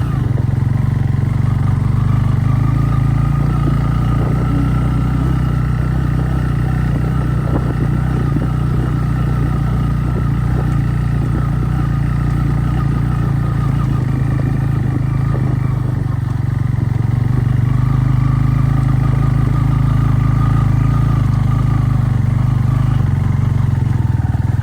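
Motorcycle engine running steadily while being ridden, a low even drone that grows a little louder past the middle.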